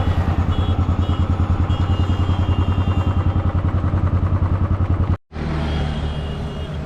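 Motorcycle engine running under way with a fast, even pulsing beat. About five seconds in it cuts off abruptly and gives way to a steadier, smoother vehicle sound.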